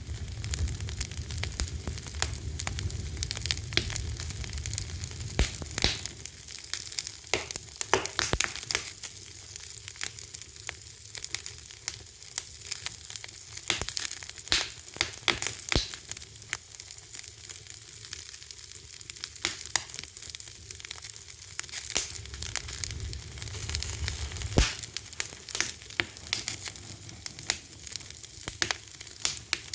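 Wood fire crackling: many irregular sharp pops and snaps over a steady hiss, with a low rumble underneath.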